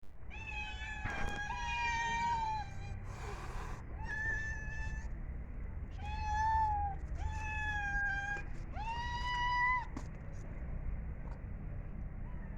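Cat meowing repeatedly: six long, fairly steady-pitched meows, with a short burst of noise between the second and third. A low steady hum runs underneath.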